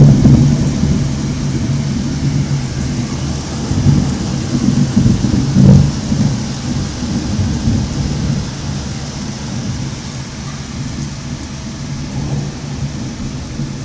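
Thunder rumbling over steady rain during a thunderstorm. A loud roll fades over the first few seconds, swells again about four to six seconds in, then dies away under the rain.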